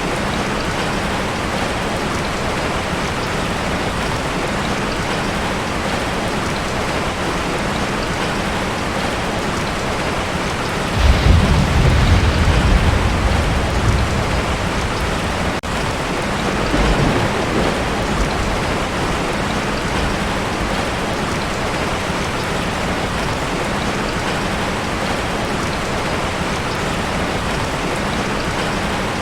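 Heavy rain pouring steadily on a tin roof. A low rumble of thunder comes about eleven seconds in and lasts about three seconds, and a fainter rumble follows a few seconds later.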